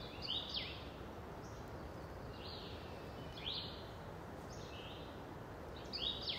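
A small bird calling repeatedly in the background, each call a short high note that sweeps quickly downward, over a steady low outdoor background noise.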